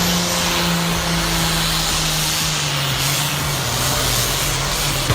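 Tractor engine running hard under load, a steady drone whose pitch drops slightly about three seconds in, as it lugs down.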